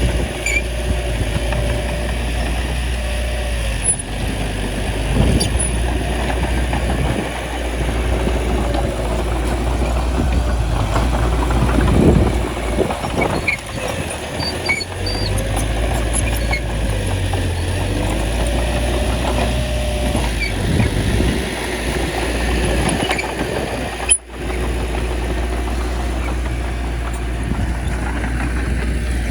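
Small crawler bulldozer's diesel engine running steadily under load, its pitch rising and falling as it pushes, with light metallic clinks from the machine. The sound cuts out for an instant near the end.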